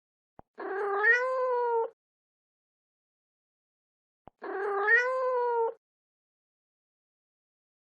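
Domestic cat meowing: two identical drawn-out meows about four seconds apart, the same recording played twice. Each starts with a slight rise in pitch, then holds, and a faint click comes just before each.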